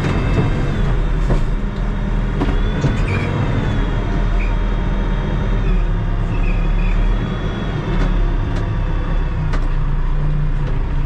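Diesel engine of a Terex TLB-815 backhoe loader running steadily, with a few sharp knocks and rattles.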